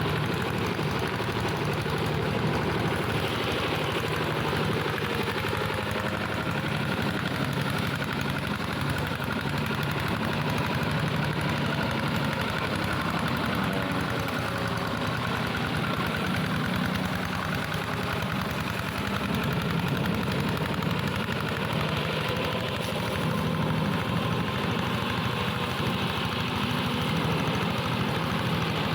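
Engine of a plough tractor modified into a grass and brush mower, running steadily without a break.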